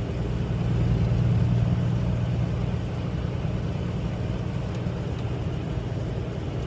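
Semi truck's diesel engine and road noise heard from inside the cab: a steady low drone while driving on the highway, getting a little louder about a second in.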